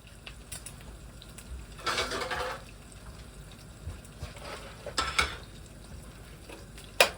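Pan and cooking utensils being handled: a short scraping rattle about two seconds in, a few knocks around five seconds, and a sharp clack near the end.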